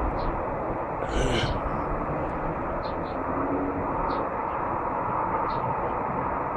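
Steady low rumble of car engines running as cars manoeuvre slowly, heard from high above, with short high chirps every second or so.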